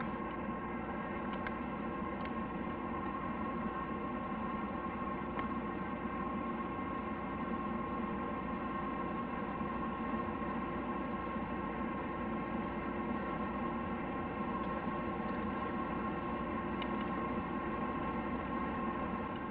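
A steady mechanical hum made of several even, unchanging tones over a rushing noise. It starts abruptly and holds at one level and pitch throughout.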